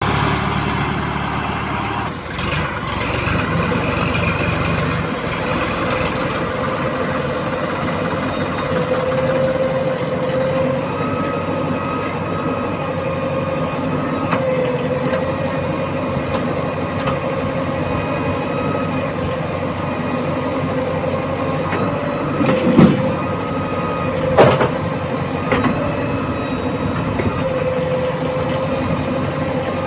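Heavy diesel machinery engine running steadily, with a wavering whine over the engine note. Two sharp knocks come about three-quarters of the way through.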